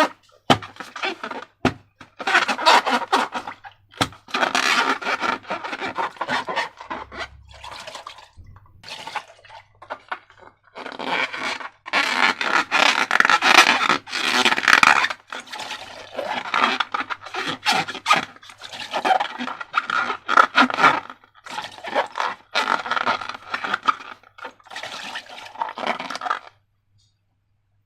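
Wet slime being squished and stirred by hand: irregular crackling, squelching bursts with short pauses between them, stopping for about a second near the end.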